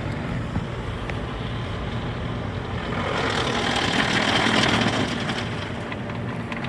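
Automatic tunnel car wash equipment heard from inside the car: a steady rush of spraying and scrubbing noise that swells a little in the middle.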